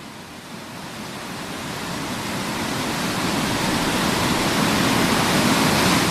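Waterfall rushing: a steady wash of falling water that grows steadily louder.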